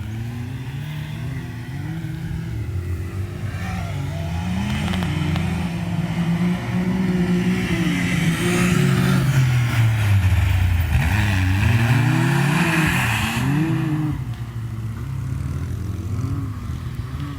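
Side-by-side UTV engine revving up and down as the throttle is worked, its pitch rising and falling again and again. It is loudest from about eight to thirteen seconds in, when a rushing hiss rides over the engine.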